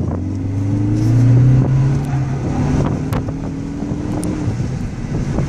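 A 2013 Ford Focus ST's turbocharged four-cylinder engine accelerating hard, heard from inside the cabin. The engine note climbs, dips about a second and a half in as it shifts up, then climbs again.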